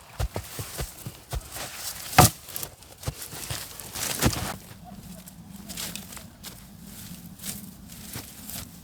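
Irregular crunches and knocks, with a sharp crack about two seconds in and another about four seconds in.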